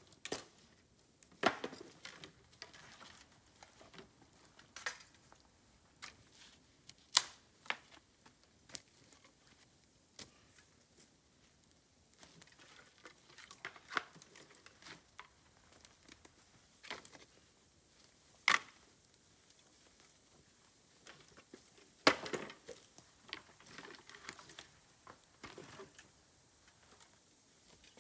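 Bamboo burning in a bonfire, crackling with irregular sharp snaps and pops, a few of them much louder than the rest.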